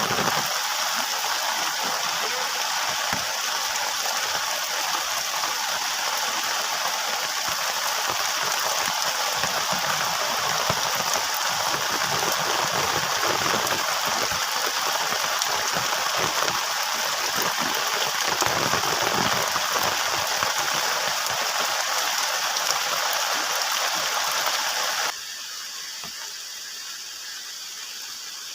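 Heavy rain falling on a plastic tarp shelter, a steady dense patter. About 25 seconds in it drops suddenly to a quieter, steady hiss of rain.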